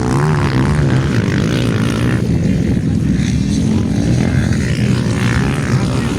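Motocross motorcycle engines racing on the track, revving with pitch rising and falling, especially in the first second.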